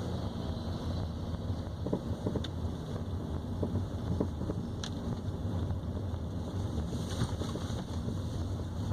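Steady road rumble from a Nissan Sentra on the move, broken by scattered short knocks from the front right suspension: the metallic banging that the owner has heard since the car was new.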